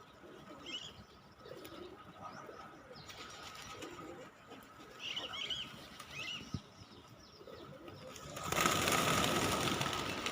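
Pigeons cooing in low repeated calls, with a few small high chirps from other birds, then a loud burst of wing flapping from about 8.5 seconds in.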